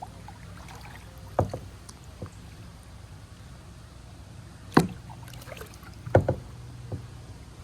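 Kayak paddling: a series of sharp knocks and clacks from the paddle against the plastic kayak, loudest near the middle and about six seconds in, over a low steady hum.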